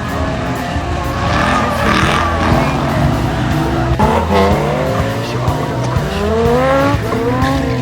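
A car engine revving hard, its pitch climbing in repeated sweeps, with tyres squealing as in drifting. Music with a steady bass line plays underneath.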